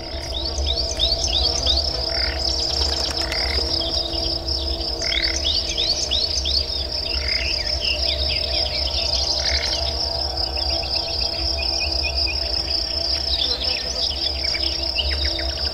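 Several birds chirping in quick, falling calls over a steady, high insect trill, with a low, steady hum underneath.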